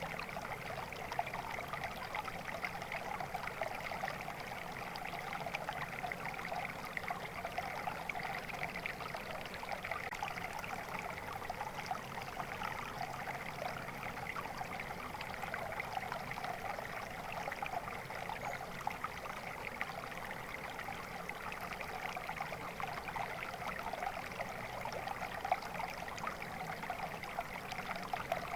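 Small stream of water flowing and trickling steadily, with a dense babble of small splashes.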